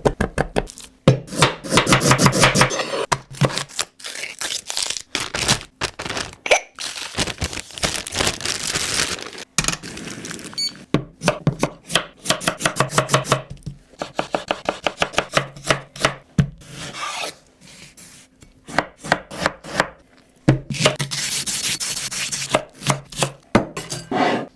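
Knife chopping food on a cutting board, rapid even strokes in several runs with short pauses between them.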